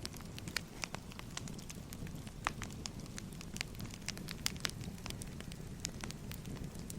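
Wood fire crackling: a steady low rumble of burning logs with irregular sharp pops and snaps, several louder ones scattered through.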